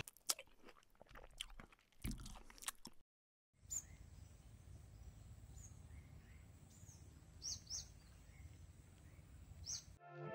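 Faint outdoor ambience with a few short, high bird chirps over a steady hiss. Before a brief cut to silence about three seconds in, there are scattered clicks and crunches.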